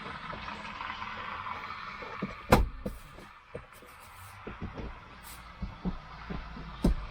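Metal hand-tool clicks and knocks while bolting in a car seat-belt mounting: one loud sharp knock a little over two seconds in, then a string of small irregular clicks, about two or three a second. A steady rushing noise runs under the first couple of seconds and stops at the knock.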